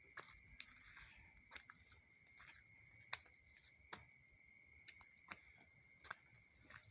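Faint night ambience: a steady high-pitched trill of night insects, with scattered soft clicks and crunches of footsteps.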